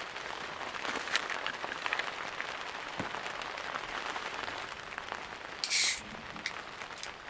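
Steady rain falling, with scattered individual drops ticking on a nearby surface. A short, loud hiss cuts in a little before the end.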